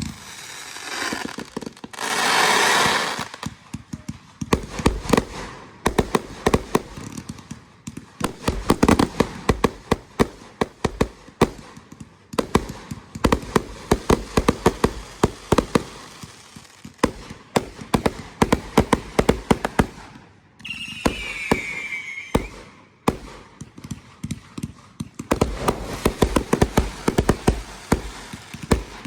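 Consumer fireworks going off: a dense run of sharp cracks and pops throughout, a loud rushing hiss about two seconds in, and a falling whistle lasting about two seconds near three quarters of the way through.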